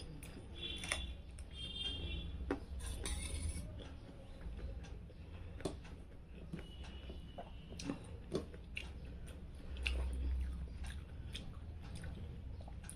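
A person chewing food close to the microphone. Scattered small clicks and taps come from fingers mixing rice on a steel plate. A couple of brief high chirps sound in the first few seconds.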